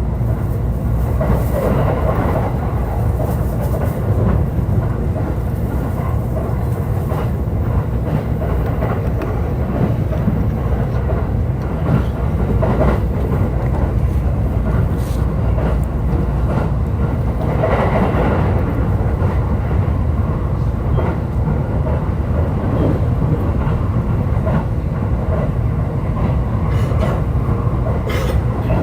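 JR East E531 series electric train running along the line: a steady rumble of wheels on rail, with occasional short clicks over rail joints.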